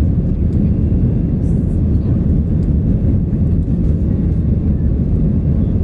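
Steady, loud, deep roar of jet engines and rushing air, heard from inside the passenger cabin of an Airbus A319.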